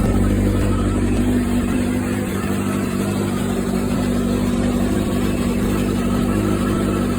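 Kawasaki ZX-7R's 750 cc inline-four engine running at a steady speed, a little louder in the first couple of seconds.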